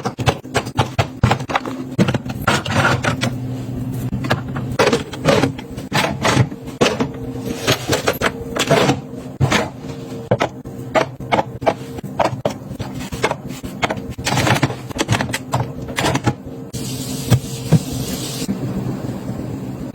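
Packaged snacks and containers being handled and set down: irregular clicks, taps and knocks, over a steady low hum, with a brief hissing rustle about three-quarters of the way through.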